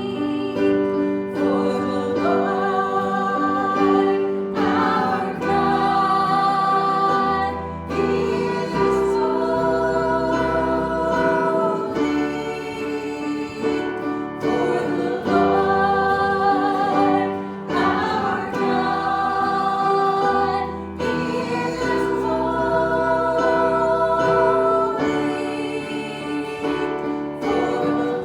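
Congregational hymn singing with instrumental accompaniment: voices held on long notes over a steady bass and chords.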